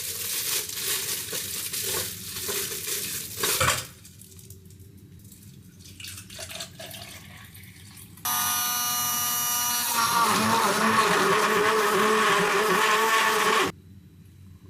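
A small electric motor appliance, blender-like, starts about eight seconds in, runs loudly for about five seconds, and cuts off suddenly. Before it, a few seconds of clattering, rustling noise.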